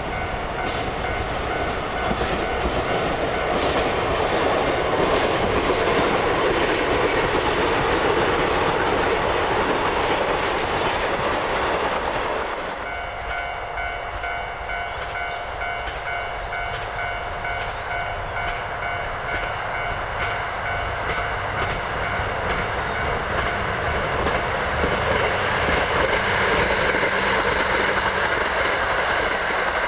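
Red diesel locomotives running along the line with steady engine and rail noise, cutting off abruptly about twelve seconds in. Then a white diesel express railcar train approaches and passes, its wheels clicking over rail joints, the sound building near the end.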